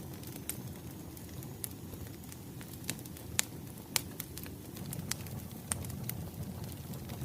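Wood fire crackling: scattered sharp pops and snaps, a couple of louder ones in the middle, over a steady low rumble of burning logs.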